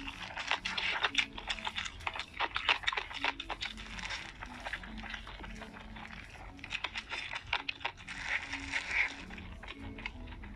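Close-miked chewing of steamed dumplings topped with crunchy pickled radish: a dense run of small crisp crunches and wet mouth sounds.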